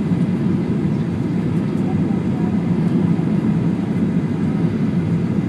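Steady low roar inside the cabin of a Boeing 737-800 on approach to land: engine and airflow noise.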